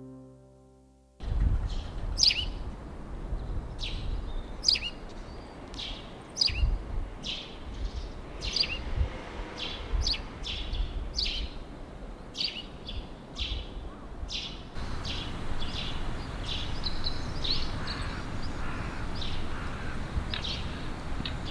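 Small birds chirping outdoors: a run of short, sharp chirps that slide downward, about one a second, then fainter, higher chirps about two-thirds of the way in, over a low rumbling noise.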